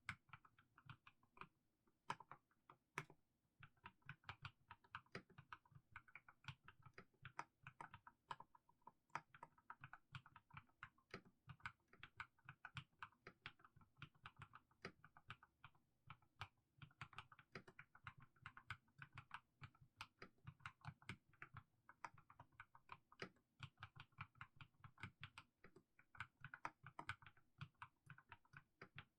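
Mechanical keyboard with fully lubed Haimu Sea Salt switches being typed on slowly: a steady run of individual keystrokes, several a second, with short pauses between runs.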